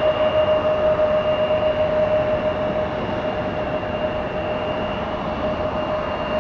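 Jet engines of a Boeing 767-300F freighter on its landing approach: a steady rush with a steady whine held through it, easing slightly about halfway.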